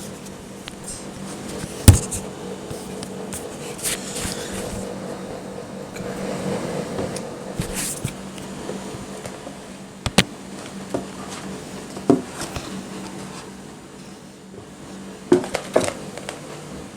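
Handling noises close to the microphone as a book and the recording device are moved about: a few sharp knocks and taps, the loudest about two seconds in, and short rustles, over a steady low hum.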